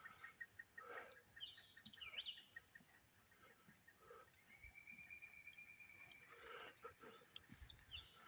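Faint birds calling: a quick run of repeated chip notes at the start, a couple of swooping whistles about two seconds in, one long held whistle in the middle, and more chirps near the end, over a steady high hiss and a few faint clicks.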